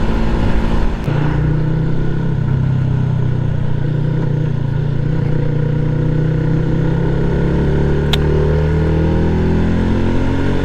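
Yamaha MT-125's single-cylinder four-stroke engine running on the move: the note dips and drops in pitch about a second in, holds steady, then climbs in pitch from about two-thirds of the way through as the bike accelerates.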